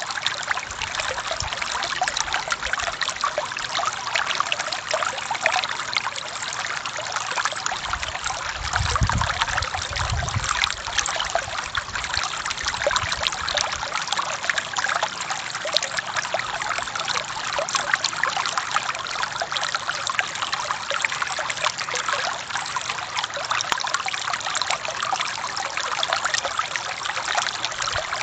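Forest stream water flowing and trickling over rocks, a steady splashing rush with no break. A brief low rumble rises under it about eight to ten seconds in.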